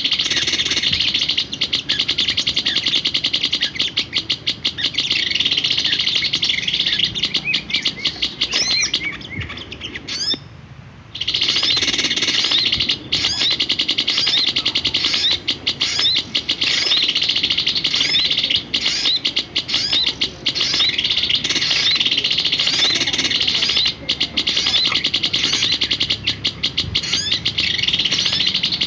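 Small songbird chirping in fast, continuous high-pitched runs of notes, with a brief pause about ten seconds in.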